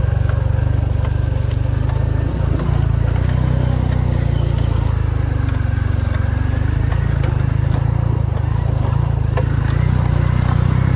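Motorbike engine running steadily while riding, a heavy low rumble throughout.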